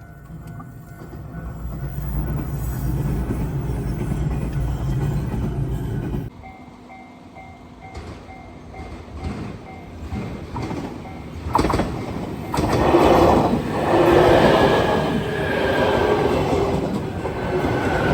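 Trains running on rails: a low rumble that swells over the first few seconds and breaks off suddenly. After a quieter stretch, wheels clatter over rail joints and squeal, loudest in the last third.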